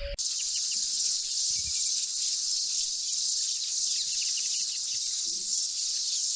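A steady, high-pitched chorus of buzzing insects that starts abruptly just after the beginning, with a few faint chirps beneath it.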